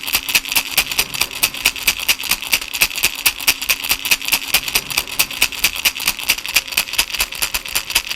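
Baby rattle shaken steadily in a fast, even rhythm, its beads clicking several times a second.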